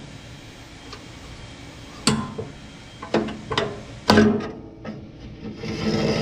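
A few sharp knocks and clanks of metal grill parts being handled in a Weber Genesis gas grill, the loudest about four seconds in, then a rasping scrape near the end.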